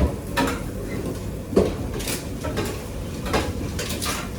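Kitchen clatter: irregular clinks and knocks of utensils and cookware, several sharp ones a second or so apart.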